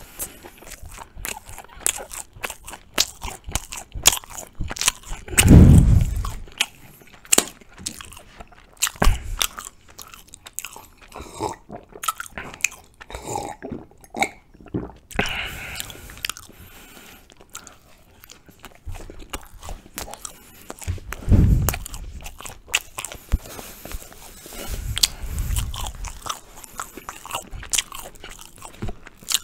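Close-miked chewing of soft Turkish pide flatbread with ajvar, with wet mouth clicks and smacks throughout and a few dull low thumps. Around the middle come sips and swallows from a mug.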